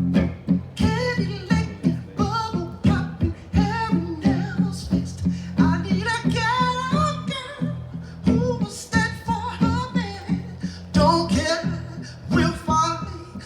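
Acoustic guitar strummed in a steady rhythm with a man singing over it, an unplugged performance.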